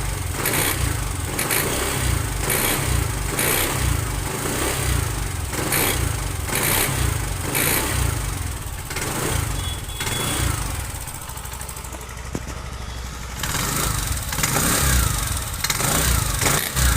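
TVS Jupiter 125 scooter's single-cylinder engine running and being revved over and over, easing off for a couple of seconds past the middle, then picking up again. It carries an abnormal bell-like noise that comes in when the throttle is raised, later traced to a worn bush inside the clutch.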